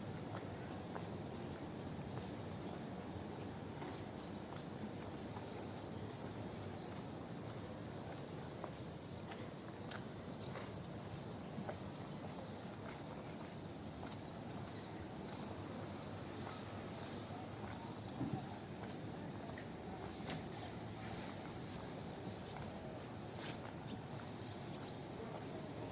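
Steady outdoor background noise with a faint high chirp repeating at an even pace, roughly once or twice a second, from about a third of the way in; a single brief knock stands out about two-thirds through.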